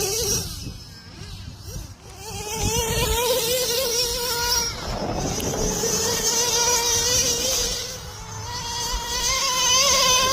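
Radio-controlled model's motor running at high speed with a high, wavering whine that breaks off briefly about halfway through and then comes back.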